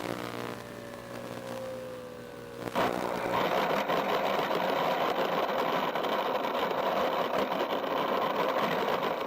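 FPV quadcopter's motors whining with several tones, one slowly falling in pitch. Nearly three seconds in, a sudden, much louder steady rushing noise takes over.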